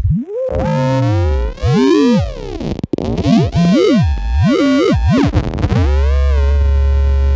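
Modular synthesizers (Bastl Kastle and Korg Volca Modular) starting abruptly out of silence, with several pitched tones sweeping up and down in crossing glides and a brief dropout about three seconds in. Near the end the sweeps settle into a steady drone of held tones over a deep bass tone.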